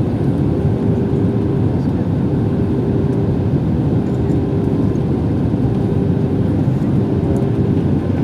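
Airliner cabin noise during the descent to land: the steady roar of engines and rushing air, with a constant low hum.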